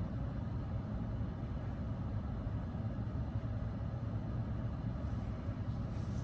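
Mark VII ChoiceWash XT rollover car wash running its soft-touch cycle: a steady low hum with a wash of machine noise over it.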